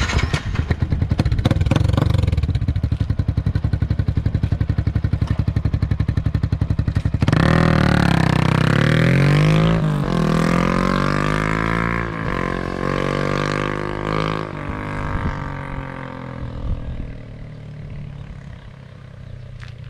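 Yamaha Sniper 150's single-cylinder four-stroke engine idling with a fast, even exhaust pulse through a freshly fitted ProLiner racing exhaust. From about seven seconds in it is revved several times, the pitch sweeping up and down, then it settles back and grows quieter near the end.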